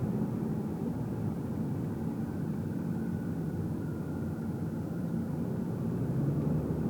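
Car cruising, heard from inside the cabin: a steady low rumble of tyres on the road and the engine, with a faint thin whine for a couple of seconds in the middle.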